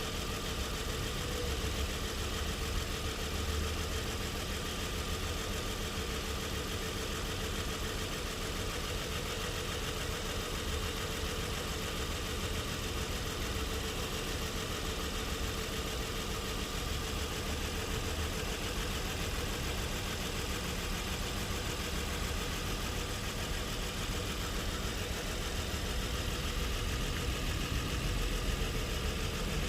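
A Nissan car engine idling steadily.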